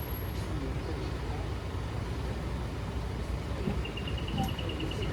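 Tourist road train riding along a town street, its engine and road noise making a steady low rumble. Near the end comes a rapid high electronic beeping, about nine beeps a second.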